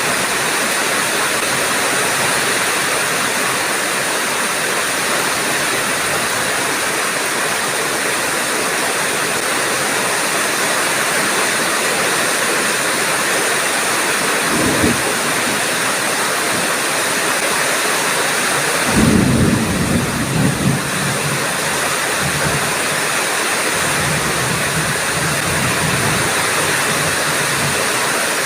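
Heavy rain pouring steadily in a thunderstorm. A short low thunder crack comes about 15 seconds in, and a louder rumble of thunder breaks about 19 seconds in and rolls on for several seconds.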